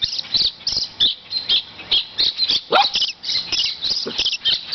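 Birds chirping in a rapid, continuous chatter of short, high notes, several a second: agitated calls from birds stirred up by a dog.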